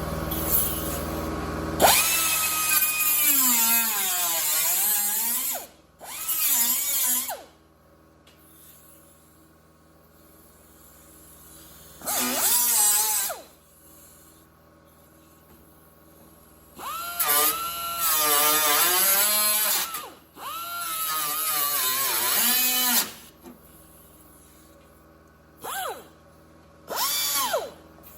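High-speed hand-held cut-off tool cutting through the tack welds on a steel sheet-metal patch panel, in about seven bursts of one to three seconds. Its whine drops in pitch as the wheel bites into the metal and climbs again as the load comes off.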